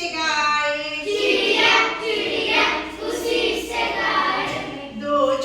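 A group of children singing a Hindi children's counting rhyme together in unison.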